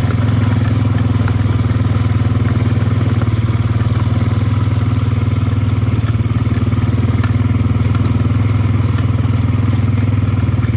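ATV engine running at a steady speed while riding along a dirt trail, with faint rattles and clatter from the machine over the ground.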